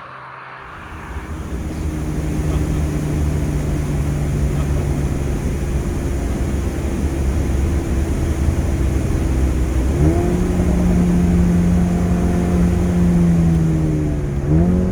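Mercedes-AMG A35's turbocharged 2.0-litre four-cylinder engine pulling at a steady pitch under a bed of road noise. About two-thirds of the way through the engine note jumps suddenly higher and holds, and right at the end the revs sweep quickly up and then fall away.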